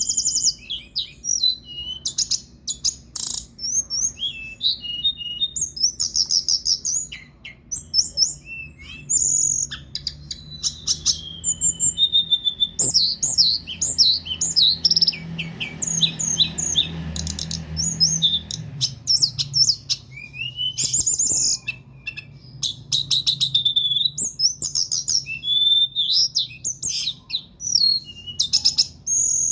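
Domestic canary in vigorous, continuous song: fast trills and runs of sharp chirped notes, one phrase after another with only short breaks.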